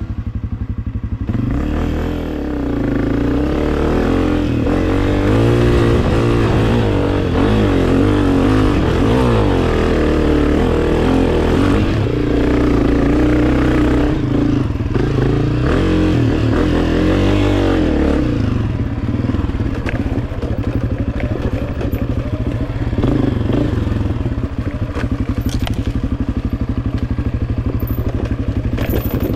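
Two-stroke dirt bike engine under way, its pitch repeatedly rising and falling as the throttle is worked for most of the time, then running lower and steadier for the last ten seconds or so.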